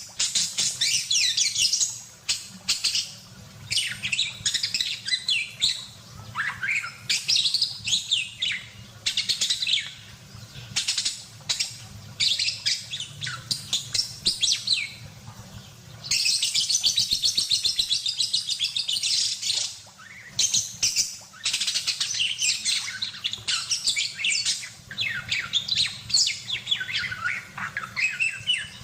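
Budgerigar chattering and warbling in full song: a rapid, nearly unbroken stream of high chirps, trills and squeaks, with a longer unbroken warble a little past halfway. A faint steady low hum runs underneath.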